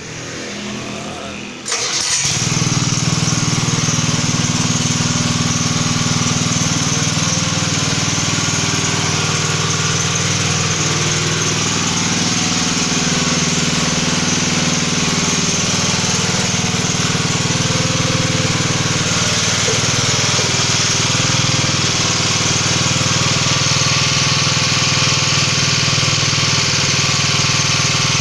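Motor of a 700-bar hydraulic pump unit starting up about two seconds in, then running steadily at full speed.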